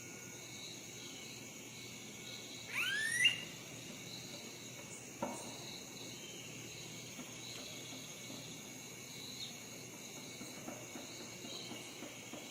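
Steady high-pitched insect chorus, with a single bird call sweeping upward about three seconds in, and a faint tap about two seconds later.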